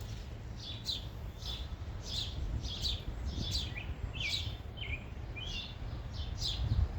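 A songbird repeatedly chirping: short, high notes that slide downward, about two a second, over a steady low rumble.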